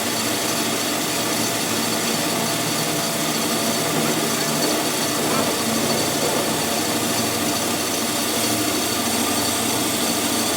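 A machine running steadily: an even mechanical noise with several faint steady tones through it.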